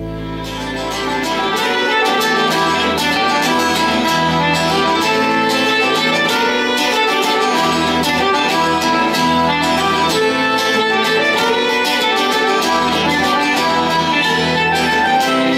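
A live band playing instrumental music: a violin lead over fast plucked guitar. The full playing takes over from a fading held chord about a second in.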